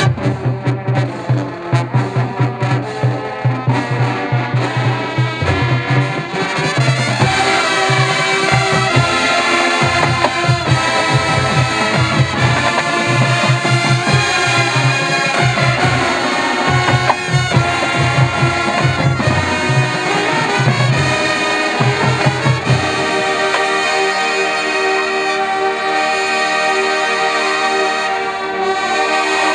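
Marching band brass (trumpets and trombones) with drumline playing an up-tempo jazz-rock chart, the drums pulsing steadily. About three quarters of the way through the drumming drops out and the brass sustains a long held chord.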